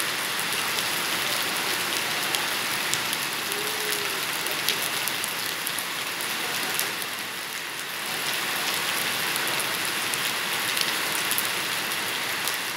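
Rain falling steadily onto a water-covered paved street: an even hiss dotted with sharp ticks of individual drops.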